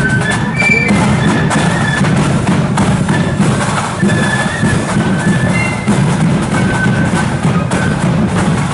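Marching flute and drum band playing: shrill flutes carrying the tune in short held notes over a steady beat of snare and bass drums.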